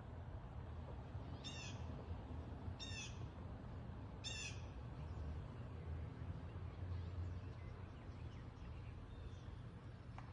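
A bird calls three times, short calls about a second and a half apart, over a steady low rumble.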